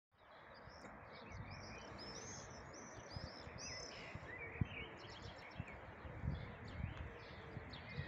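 Songbirds singing: runs of quick, repeated high chirping notes, busiest in the first half, over a steady low background rumble. A few brief low thumps about halfway through.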